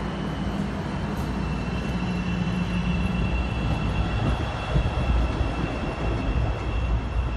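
CTA 5000-series rapid-transit train running through the station: a steady rumble with a high steady whine over it, and irregular low knocks of the wheels from about four seconds in.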